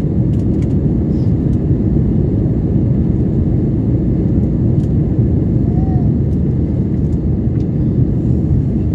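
Airliner's jet engines at takeoff power with rushing airflow: a loud, steady low rumble.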